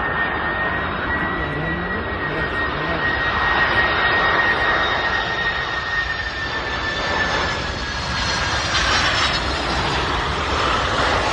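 Jet airliner passing close overhead: a loud, steady jet roar with a high engine whine that slowly falls in pitch.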